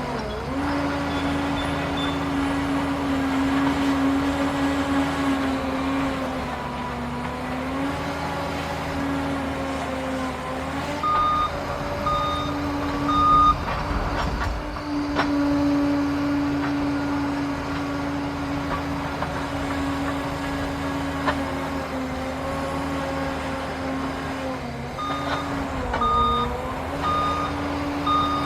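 Liebherr PR 746 Litronic crawler dozer running under load, its steady machine tone sagging and recovering at times. Its reversing alarm beeps in two short runs, once about eleven seconds in and again near the end.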